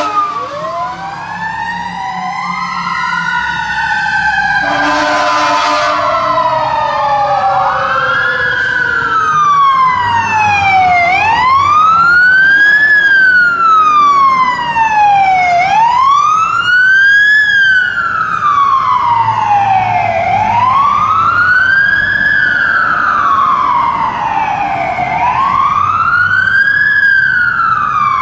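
Fire apparatus sirens wailing as the units respond. Early on two sirens overlap with sweeps out of step, and a short air-horn-like blast comes about 5 s in. From about 9 s one siren settles into a slow, even wail rising and falling about once every 4.6 seconds.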